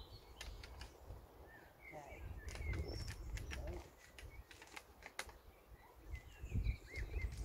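Small birds chirping in short, curling calls twice, with scattered light clicks and a low rumble that comes and goes.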